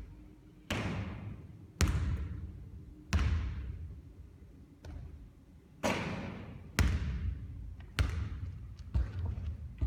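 Basketballs bouncing on a court, a sharp thud about once a second, each trailing off in a long echo.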